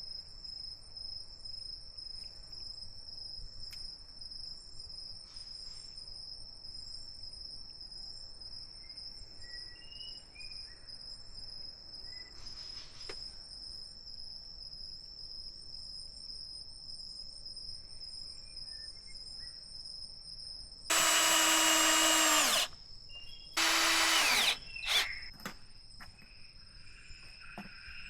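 Steady high-pitched insect chirring from the forest. About two-thirds of the way in, a power drill runs in two short bursts at a steady pitch, the first under two seconds and the second about a second, both much louder than the insects.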